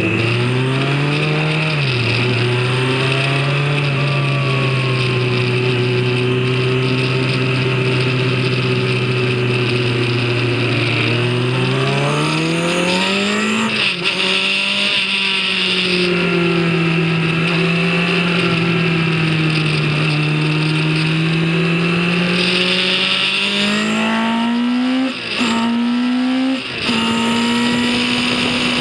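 Racing vehicle engine running at speed on track. Its pitch holds steady for a long stretch, climbs over a few seconds, falls back, then rises again, with brief drops near the end that sound like gear changes.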